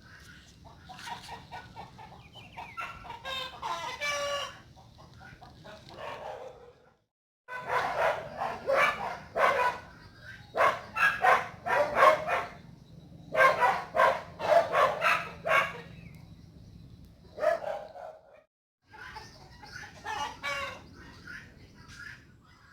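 Chickens clucking and a rooster crowing, with loud repeated calls in the middle. The sound breaks off to silence twice, about 7 and 18.5 seconds in.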